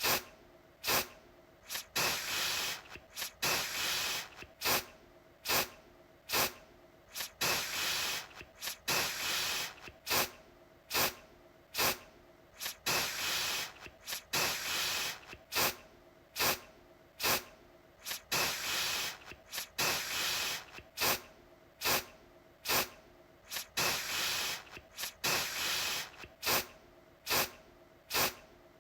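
Aerosol deodorant can spraying in repeated bursts, about one a second, each starting sharply. Short puffs mix with longer sprays of about half a second or more.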